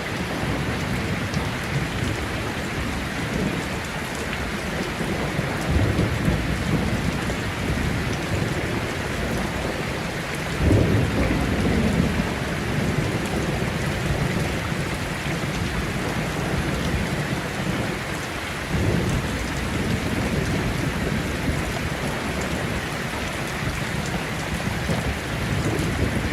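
Heavy rain falling steadily with thunder rolling three times, a low rumble about six seconds in, a louder one about ten seconds in and another near nineteen seconds.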